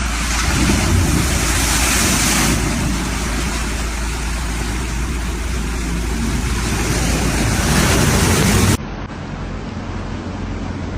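Loud, steady rushing roar of storm wind and water. About nine seconds in it cuts abruptly to a quieter stretch of the same kind of noise.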